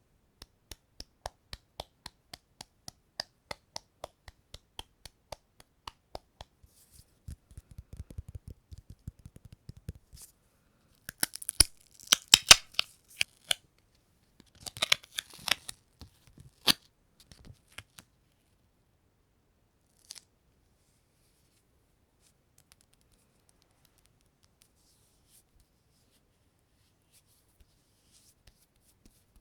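Sticky ASMR sounds: a sticky surface clicking as it is touched and pulled away, about three sharp clicks a second for roughly ten seconds. This is followed by two louder spells of crackling peeling, a tearing sound, and then a few faint clicks before it goes mostly quiet.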